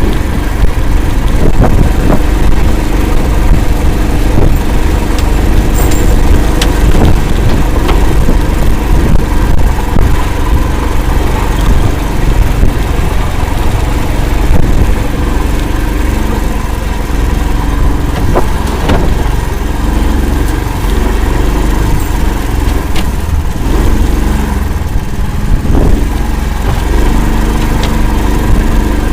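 Engine of an "Akula" all-terrain swamp vehicle running steadily as it drives, with scattered short knocks and clatter.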